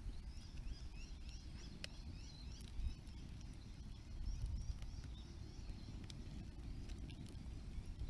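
Small birds chirping in a rapid run of short high notes over the first three seconds, above a steady low outdoor rumble, with a few isolated sharp cracks.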